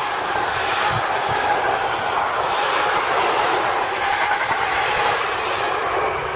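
A train passing close by at speed, its wheels and wagons rolling over the rails in a steady loud rush, with a couple of low knocks about a second in.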